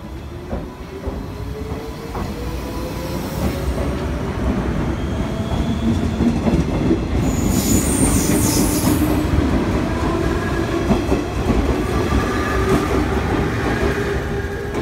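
JR 719 series electric train pulling out of the platform and gathering speed: its motors whine slowly up in pitch over the rumble and clatter of the wheels on the rails, with a brief high wheel squeal about eight seconds in.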